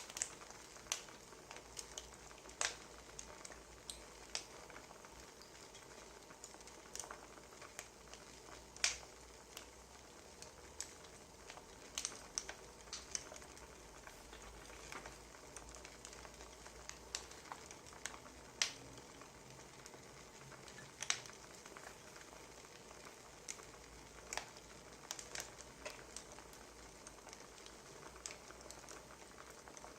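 Wood fire crackling: a faint steady hiss with irregular sharp pops and snaps, about one a second, some louder than the rest.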